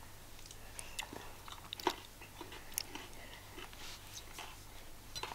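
A person chewing a mouthful of salad, with faint, irregular crunches and small mouth clicks.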